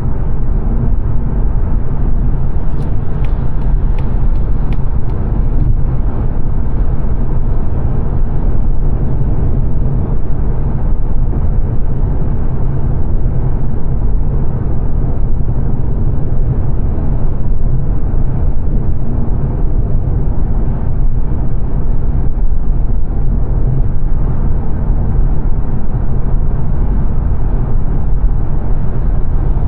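Steady road and tyre noise inside a 2022 Mazda 3 saloon's cabin at dual-carriageway speed, mostly a low rumble. A few light clicks come about three to five seconds in.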